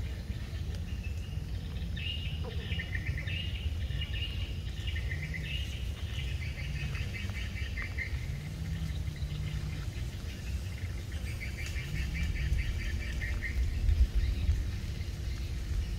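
Small birds calling in bouts of rapid chirping trills, several bouts in a row, over a steady low rumble.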